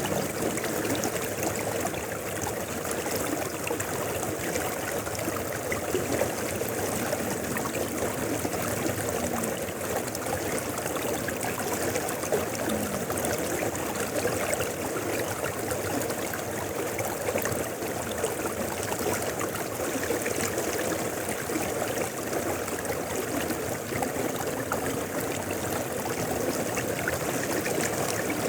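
Mountain river flowing steadily, a continuous rush of water over rocks with small splashes throughout.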